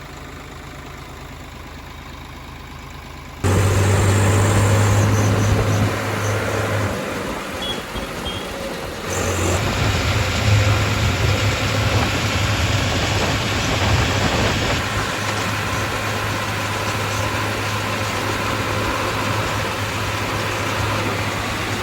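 Swaraj 744 XT tractor's diesel engine running with a steady low drone. It is quieter at first, then suddenly much louder about three and a half seconds in, with a brief dip a few seconds later.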